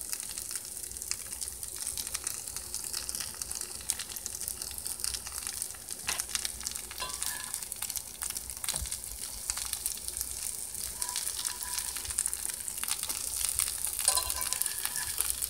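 Batter-coated giant puffball slices sizzling and crackling in melted butter in a cast iron skillet. A few light knocks come from a fork turning the slices over.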